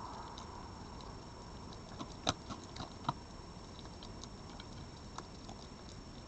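An animal crunching food: scattered faint clicks and taps, with two sharper crunches at about two and three seconds in, over a steady hiss.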